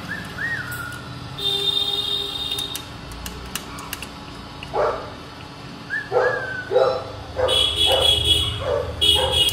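A dog barking in short bursts, several barks from about five seconds in, with a few brief high whistle-like calls.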